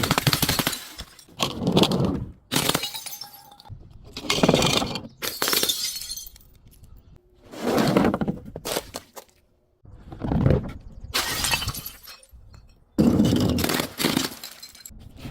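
Glass and crunchy objects being crushed, heard as a series of about ten separate bursts of cracking, crunching and shattering.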